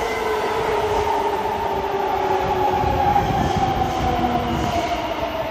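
Madrid Metro electric train running, its motor whine gliding slowly and steadily down in pitch as the train slows, over a rumble of wheels on rail.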